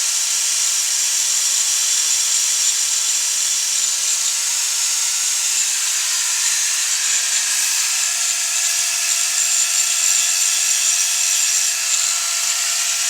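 A power tool running steadily: a high whine made of several steady tones over a constant hiss.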